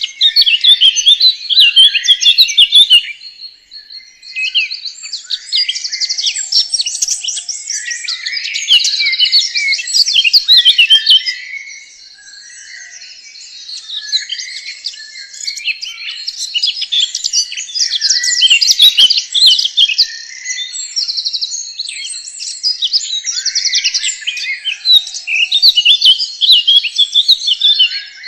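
Birds chirping and trilling in dense, overlapping phrases, with a thin steady high tone underneath; the song eases briefly about halfway through.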